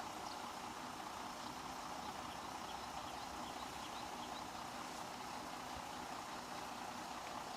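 Bulldozer's diesel engine running steadily, heard faintly.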